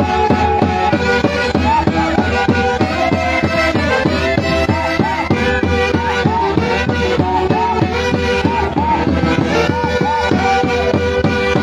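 Central Peruvian orquesta típica playing a Santiago tune: a lively melody with quick runs and vibrato over a steady, driving beat.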